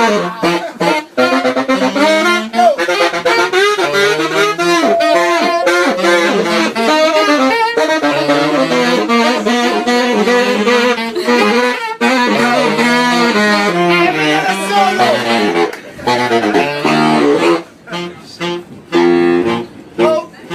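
Saxophone playing fast improvised jazz runs with bent notes, breaking into shorter, choppier phrases with brief gaps in the last few seconds.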